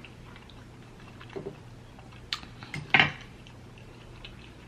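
Scattered light taps and clicks of food and utensils being handled at the table, with one sharper, louder clatter about three seconds in.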